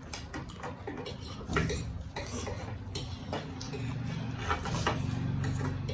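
Eating utensils clicking and scraping against a dish while eating noodles, in short scattered clicks. A low steady hum rises underneath from about halfway.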